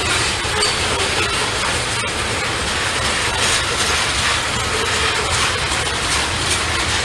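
Norfolk Southern freight train rolling past, its cars' wheels making a steady rumble and clatter on the rails.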